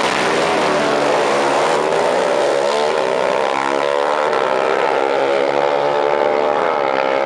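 Motorcycle engine running at high, fairly steady revs, with a brief dip and pick-up in pitch near the end.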